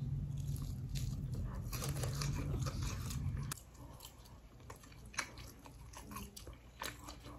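A bite into crispy fried chicken, then chewing with small crunches and mouth noises. A low steady hum sits under the first half and cuts off suddenly about three and a half seconds in.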